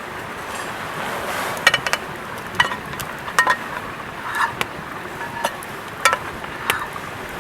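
A spoon knocks against a metal camp mug about nine times, as if stirring coffee: light metallic clinks with a short ring, spaced irregularly. A steady rushing noise sits underneath.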